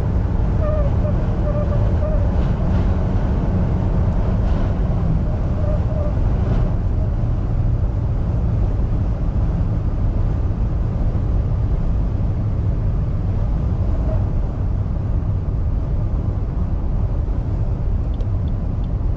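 Inside the cabin of a 2023 Suzuki XL6 minivan accelerating hard into a gale-force headwind: a loud, steady rumble of wind and road noise, with wind noise coming from the closed driver's window or door. A faint wavering whine in the first few seconds fades into the rumble.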